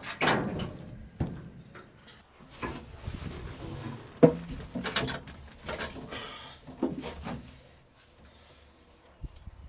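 A series of scattered knocks and clicks, the loudest a little over four seconds in, fading toward the end.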